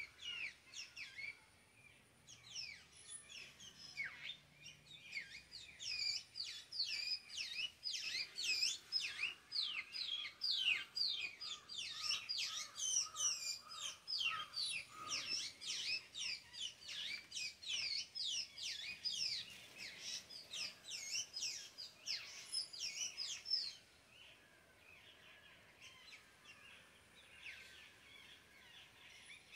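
Black drongos calling: a dense run of quick, high chirps, several a second, that thins to fainter calls for the last few seconds.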